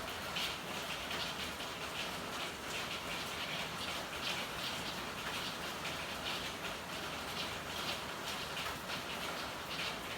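Steady rain falling, a continuous hiss with an uneven patter of drops.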